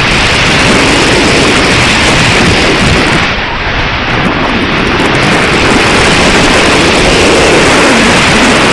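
Strong wind buffeting the microphone: a loud, continuous rumble and rush that eases briefly about three and a half seconds in.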